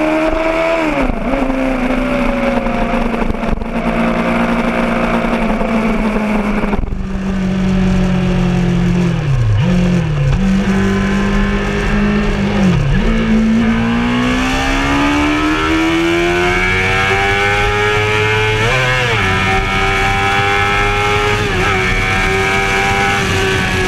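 Honda CBR600RR's inline-four engine running under way, heard from on board. Its revs dip briefly a few times in the first half, then climb steadily through the second half and hold high.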